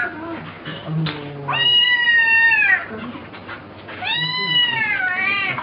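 Domestic cat meowing: two long, drawn-out meows about a second and a half in and again about four seconds in, each rising and then falling in pitch.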